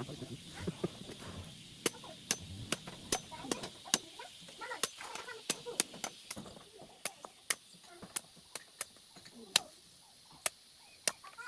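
A hoe blade chopping at a coconut to husk it: a run of sharp knocks, about two a second, irregular.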